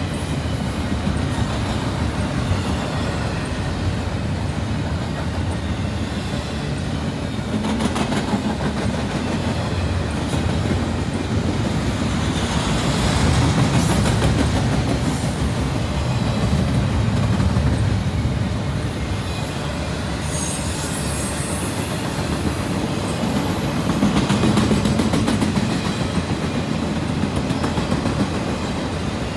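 Double-stack intermodal freight train rolling past: a steady rumble of well cars on the rails with scattered wheel clicks, swelling a little twice as heavier cars go by, and a brief high wheel squeal about twenty seconds in.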